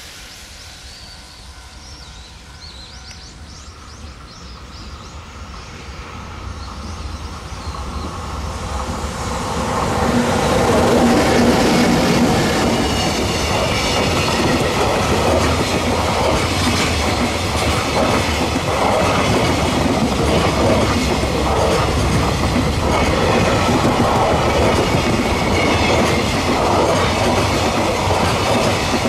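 Freight train approaching along the main line, growing louder over about the first ten seconds, then passing close by with a steady run of wheel clatter over the rail joints.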